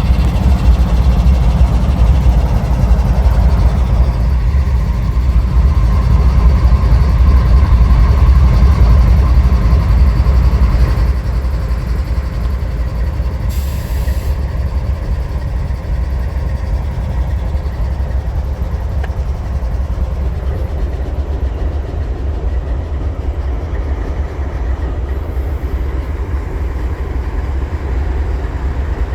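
Freight train passing on the tracks: a loud, steady low rumble of the train, easing off about eleven seconds in and continuing more quietly.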